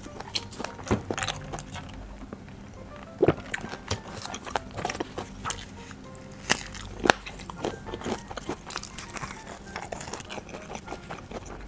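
Close-miked eating: a person chewing and biting food, with sharp crunching bites standing out twice, about three seconds in and about seven seconds in, over quiet background music.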